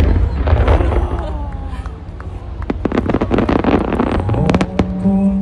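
Fireworks going off: a sharp bang at the start, then crackling and a quick run of sharp pops through the middle. Music comes back in near the end.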